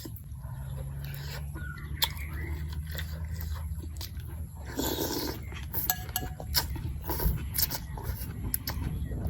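A person eating noodle soup close to the microphone: chewing and slurping, with scattered sharp clicks and a louder slurp about five seconds in, over a steady low rumble.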